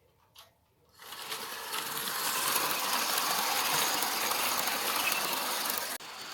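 Railway train of Mark 2 coaches running on the line: a steady, loud rattling clatter of wheels and running gear that comes in about a second in, after a couple of faint clicks.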